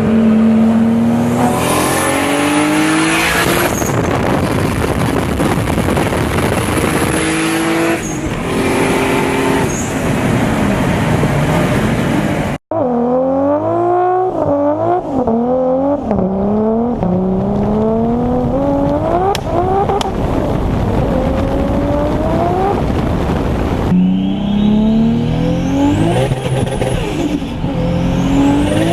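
Toyota Supra engines accelerating hard in several clips cut together. The engine note climbs and drops back again and again as the gears change, and a thin high turbo whistle rises with the revs.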